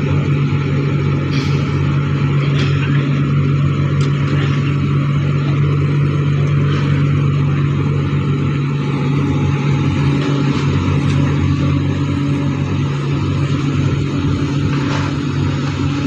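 A large engine running steadily at a constant speed, a deep even hum with no change in pitch, with a few faint clicks on top.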